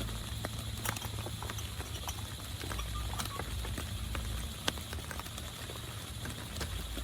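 Raindrops tapping irregularly on tent fabric over a steady hiss of rain.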